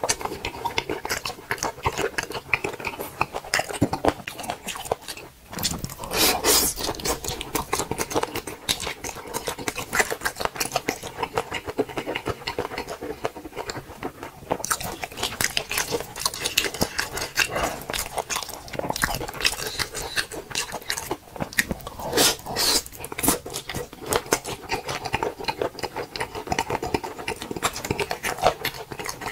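Someone chewing a large mouthful of spicy boneless chicken feet: a constant run of chewy clicks and smacks, with a few louder bites.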